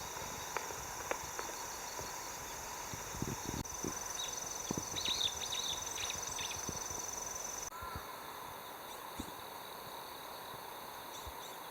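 Outdoor ambience: a steady high-pitched drone with scattered light knocks and clicks, and a few short chirps about five seconds in.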